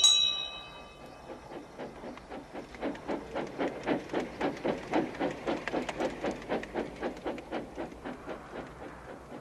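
A steam tram engine puffing steadily on the move, about three chuffs a second, growing louder through the middle and then fading away as it passes. A bell rung just before dies away in the first second.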